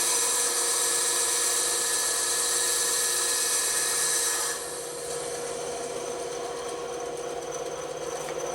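Bandsaw cutting wood, a steady hissing saw noise. About four and a half seconds in the cutting noise drops away, and the saw runs on with a quieter steady hum.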